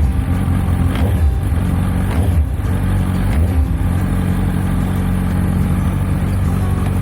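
Suzuki Hayabusa GSX1300R inline-four engine running steadily through its Yoshimura exhaust, with a few faint clicks over the low engine note.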